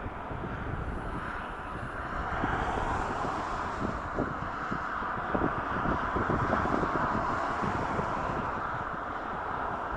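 Gusty storm wind buffeting the microphone in uneven blasts, with the steady rush of a jet aircraft's engines underneath.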